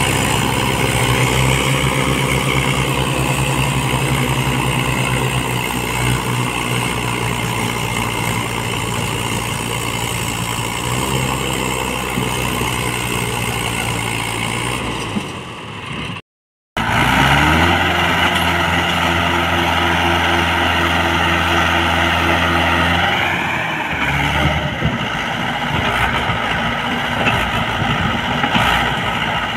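Tractor diesel engines running hard at a steady pitch, as in pulling a heavily loaded trolley. The sound cuts out abruptly about halfway, then a similar engine sound takes up again.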